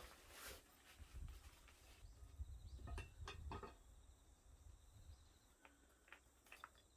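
Near silence with a few faint, sharp clicks, a cluster of three about three seconds in and a few more near the end, over a low rumble.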